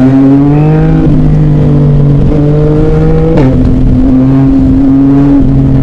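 Yamaha Tracer motorcycle engine under acceleration, its note climbing and then dropping sharply about a second in and again about three and a half seconds in, as at an upshift, before holding a steady pitch. Wind rush on the helmet-mounted microphone runs underneath.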